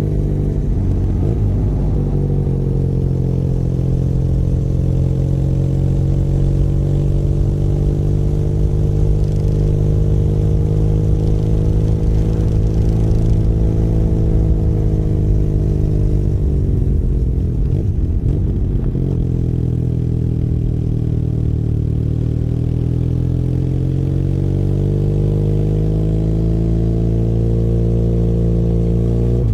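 Benelli Leoncino 500 Trail's parallel-twin engine running under way, heard from the rider's seat. The revs rise and fall gently with the throttle, and twice, about a second in and again about eighteen seconds in, they drop briefly and pick up again.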